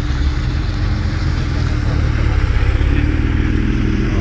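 A car engine running steadily at low revs, a deep rumble with no clear rise or fall.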